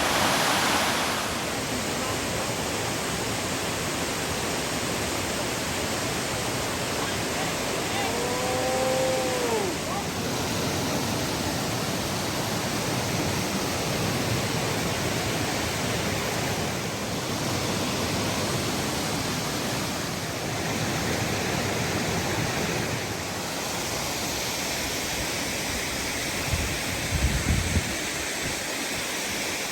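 Waterfall rushing steadily into a creek pool, an even, continuous roar of falling water. About eight seconds in, a brief call rises and falls in pitch over it, and a few low bumps come near the end.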